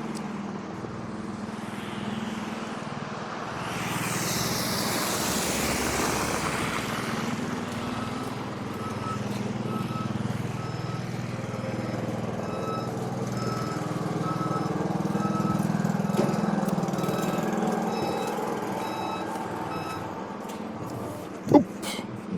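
A vehicle's engine running steadily, with a backup alarm beeping in a steady rhythm for about ten seconds in the middle. A rush of noise swells about four to seven seconds in, and a sharp click sounds near the end.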